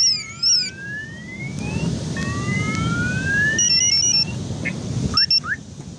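Car alarms sounding, cycling through their patterns: a fast warble that stops about half a second in, then long rising whoops and a stepped two-tone warble. Under them runs a steady low rumble.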